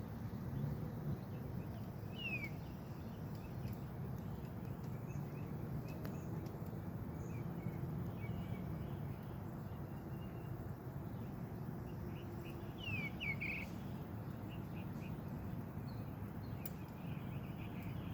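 Wild birds giving scattered short, falling chirps, a few near the start and a quick cluster about two-thirds of the way through, over a steady low background rumble.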